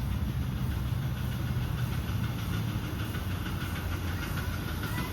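A 1/8-scale live-steam locomotive and its passenger cars running on the track, giving a steady low rumble with a faint hiss.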